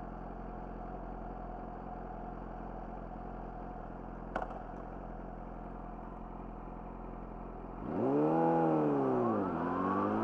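Yamaha YZF-R6 inline-four with an Akrapovic slip-on exhaust idling steadily, with a single sharp click about four seconds in. Near the end the engine revs up and the bike pulls away: the pitch rises, drops at a gear change, then climbs again.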